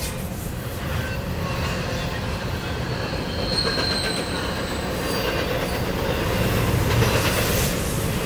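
Freight train tank cars rolling past close by: a steady rumble of steel wheels on rail, with a brief high wheel squeal about halfway through.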